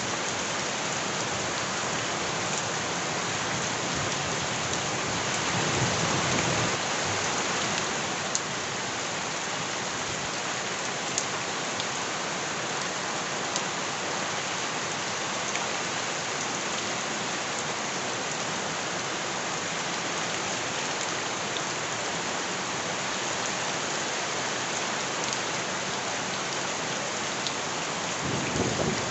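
Steady heavy rain hissing, with a few sharp single drop ticks. A low swell comes about six seconds in and again near the end.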